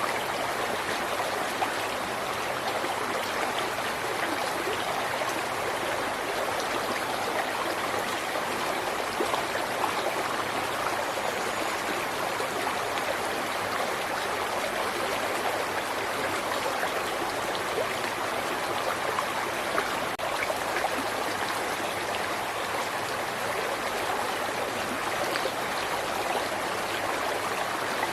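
A river or stream flowing steadily over rocks, an even rushing and babbling with small splashes and no change in strength.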